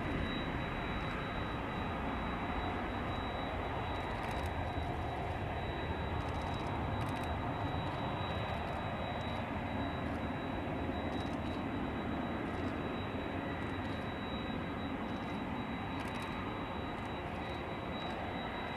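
Steady jet aircraft engine noise at an airport, an even rumble that holds at one level, with a thin steady high tone running through it.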